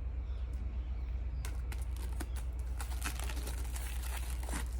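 Camera packaging being opened by hand: irregular crinkling and tearing crackles, thickest from about a third of the way in until near the end, over a steady low hum.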